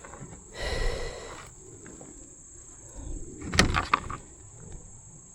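Insects singing steadily with a high, even drone. About a second in there is a brief rush of noise, and about three and a half seconds in a quick cluster of clicks and knocks, the loudest sound.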